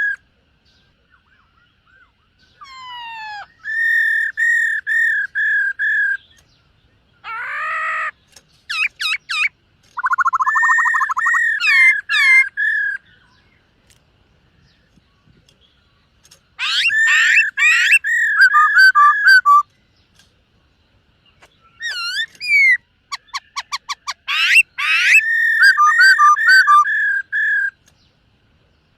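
Black-throated laughingthrush singing: bursts of clear whistled notes repeated in quick runs, mixed with fast sweeping and trilled notes, broken by short pauses of one to three seconds.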